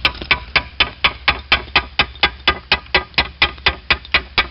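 A slater's hammer striking a slate shingle in quick, even blows, about four a second, chopping the slate down to a line.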